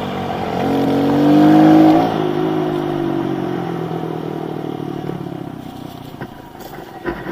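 Kawasaki KLX110 pit bike's small single-cylinder four-stroke engine revving up, the throttle snapping shut about two seconds in, then the engine note falling away and fading.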